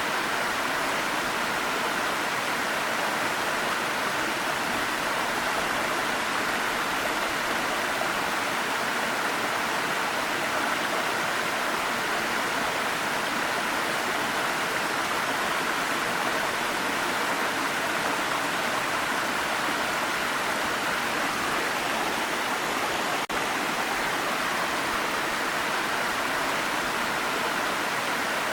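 Waterfall: a steady, even rush of falling water with no change in level, broken once by a momentary dropout about 23 seconds in.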